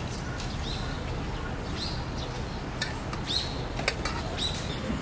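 Small birds chirping in short calls, repeated every half second or so, over a steady low rumble, with a few sharp clicks past the middle.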